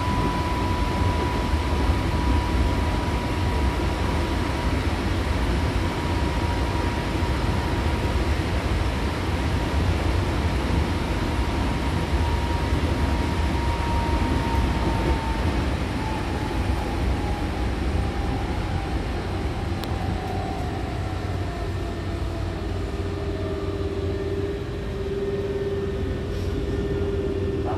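Hankyu Kyoto Line electric train heard from inside the car as it slows into a station. Wheels rumble on the rails under a motor whine that holds steady, then falls in pitch over the second half as the train brakes. A lower steady tone joins near the end.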